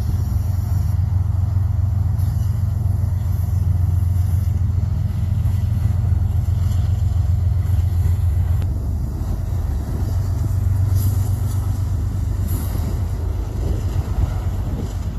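Diesel locomotive engine running near the track, a steady low rumbling drone that eases a little about nine seconds in.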